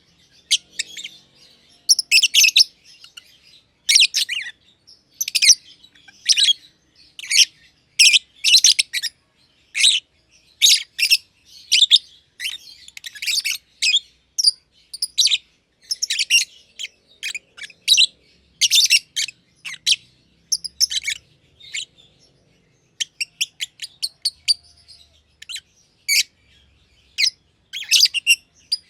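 Black-masked lovebirds (personata) chirping: short, high, sharp calls in quick runs of several a second, with brief pauses.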